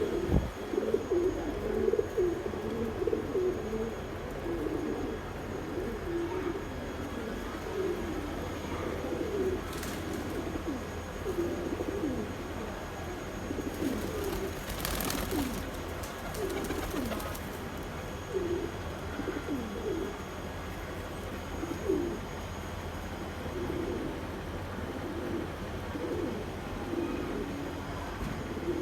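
Several domestic pigeons cooing, low overlapping coos one after another, with a short rustling noise about halfway through.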